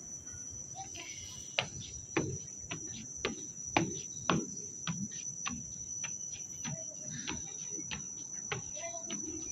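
A steady, high-pitched drone of rainforest insects, with irregular knocks and thumps over it from about a second and a half in.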